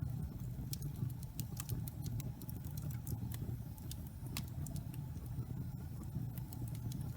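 Wood fire burning in a fireplace: logs crackling with many sharp, irregular pops over a steady low rumble of the flames.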